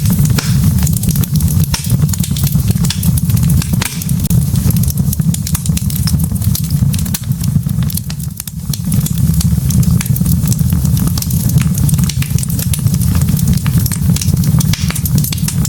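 Wood fire burning in a fireplace: a steady low rumble of flame with many sharp crackles and pops from the burning logs.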